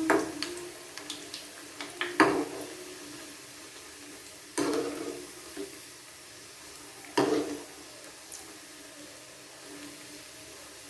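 Bread rolls deep-frying in a small pan of hot oil, a steady sizzle. A utensil clatters against the pan four times, at the start, about two seconds in, about four and a half seconds in, and about seven seconds in.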